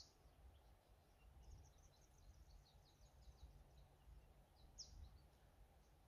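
Faint birdsong: a sharp high call sweeping downward at the start and again about five seconds in, with a quick run of short twittering chirps between them, over a soft low rumble.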